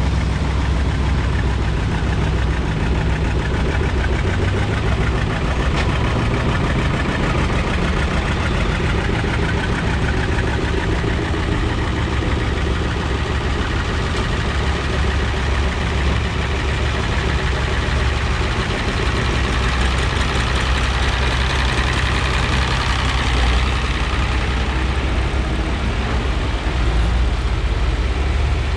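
Vehicle engine running steadily with a deep, continuous hum.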